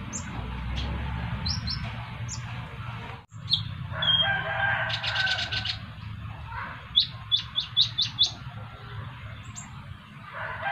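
Van Hasselt's sunbird (kolibri ninja) calling: short, high chirps, a rapid chattering trill about four seconds in, and a quick run of rising calls about seven seconds in.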